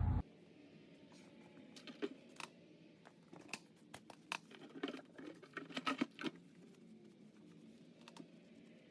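Faint, scattered light clicks and knocks, bunched between about two and six and a half seconds in, over quiet room tone.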